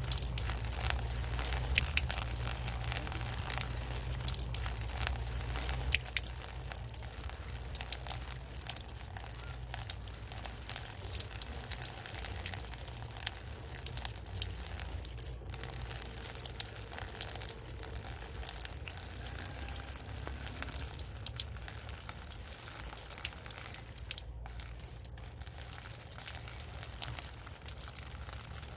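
Steady rain falling, a dense hiss of many small drop ticks, over a low rumble that eases off about six seconds in.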